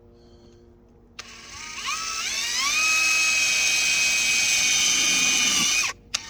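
Cordless drill driving a self-tapping screw. The motor whine starts about a second in, rises in pitch to full speed, runs steady, then stops suddenly, with a short click just after.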